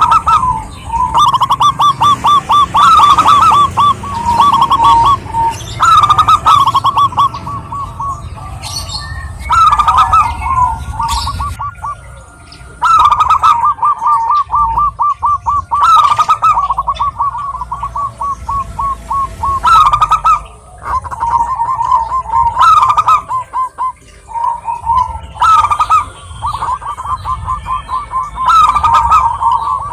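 Zebra dove (perkutut) cooing: phrase after phrase of quick, staccato notes, each run lasting a couple of seconds with short breaks between.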